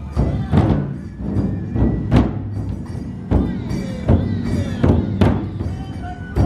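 Large Matsue dō festival drums beaten with sticks, heavy strikes coming one or two a second.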